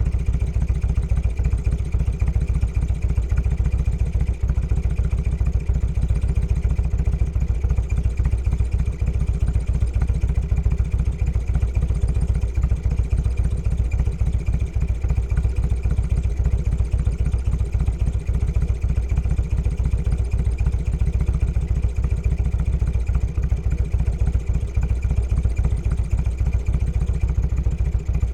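Motorcycle engine running steadily with an even low pulsing, neither revving up nor down.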